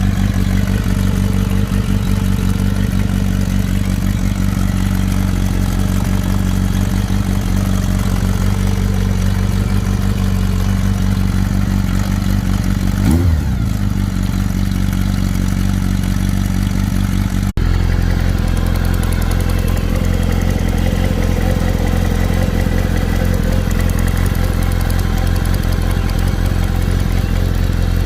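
Kawasaki ZR-7's air-cooled inline-four engine idling steadily, with one short blip of the throttle about 13 seconds in. It makes a noise that the owner takes for a problem but cannot identify.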